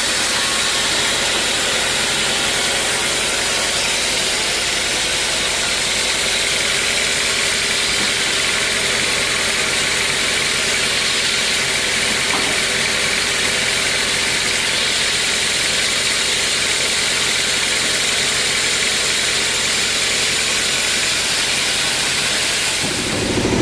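Sawmill machinery running steadily, an even hiss with a faint hum of motors. Just before the end a louder, deeper running sound comes in.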